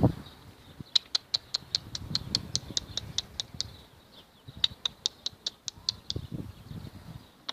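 Homing pigeons: two runs of short, high-pitched calls, about five a second, over soft low cooing.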